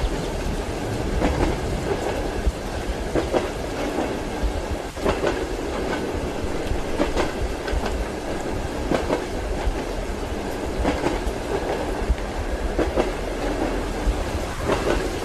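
Train wheels clacking over rail joints in a steady rhythm, a cluster of clicks about every two seconds, over the continuous rumble of a moving railway carriage.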